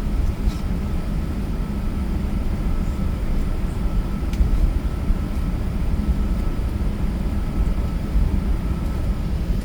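Steady low rumble of an Airbus A380 airliner, engines and airflow running evenly, with a faint thin steady whine above it.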